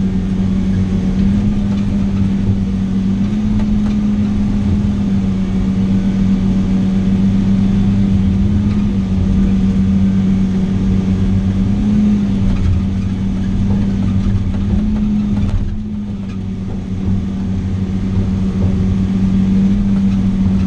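Heavy diesel engine of logging equipment running steadily at an even speed, with a short dip in loudness about three-quarters of the way through.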